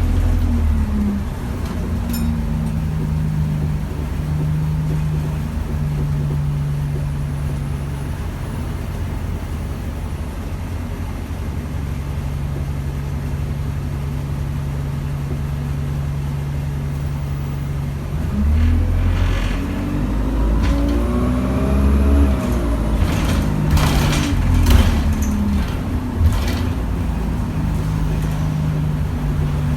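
Alexander Dennis Enviro200 single-deck bus's diesel engine idling steadily, then revving up about eighteen seconds in as the bus pulls away, its pitch climbing and dropping a few times through the gear changes. Several sharp knocks and rattles come a few seconds later before it settles back to a steady run.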